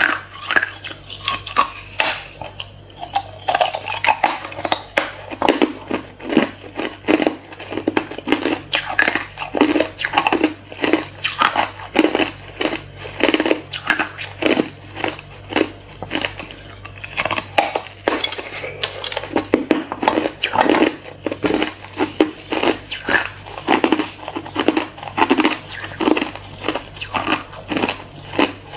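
Hard clear ice being bitten and chewed, a steady run of sharp crunches about two a second.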